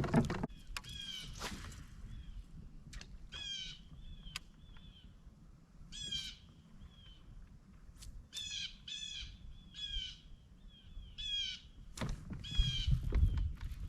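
Crows cawing repeatedly in short, harsh calls, some in quick runs of three or four. A low rumbling noise comes up near the end.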